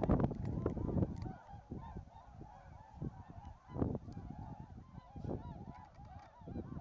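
A flock of swans calling, many short honking calls overlapping one another. A louder low rumble comes near the start and again about four seconds in.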